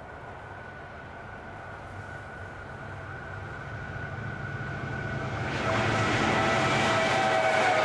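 Two diesel freight locomotives approaching at speed. Their engine drone with a steady whine grows louder, then about five and a half seconds in the sound jumps louder and fuller as they draw close and the wheel and rail noise joins in.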